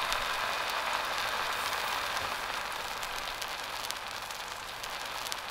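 Pancake batter sizzling in a pan: a steady crackling hiss that eases off slightly as the pancake sets.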